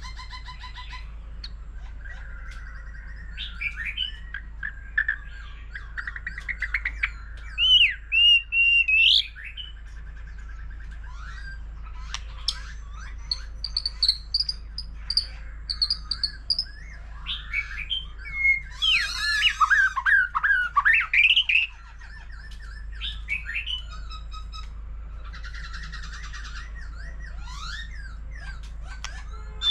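White-rumped shama singing a long varied song: clear whistled phrases, fast trills and quick runs of repeated notes, delivered in bursts separated by short pauses.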